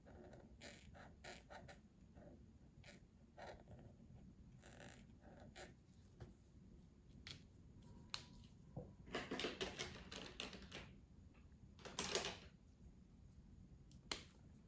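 Faint scratching of a coloring tool on paper in short strokes, with a denser run of quick strokes a little past the middle and a sharp click near the end.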